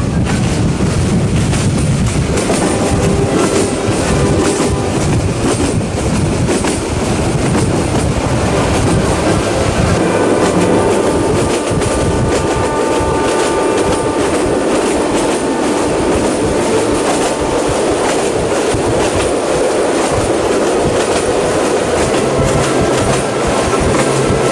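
Train running along the line, a steady rumble with wheels clicking over rail joints. For a stretch in the middle, a thin high tone rides over it.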